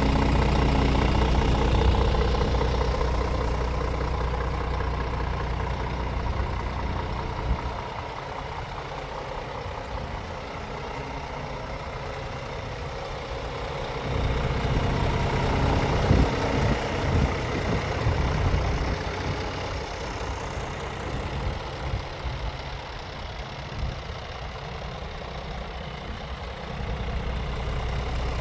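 Scania R410 truck's 13-litre straight-six diesel idling steadily. Its level rises and falls, loudest at the start, dropping about 7 s in, louder again about 14 s in and dropping once more near 20 s before rising near the end.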